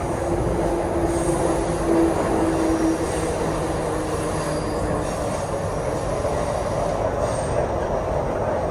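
MTR Kwun Tong Line C-Train running, heard from on board: a steady rumble of wheels and motors, with a held tone in the first three seconds that then fades.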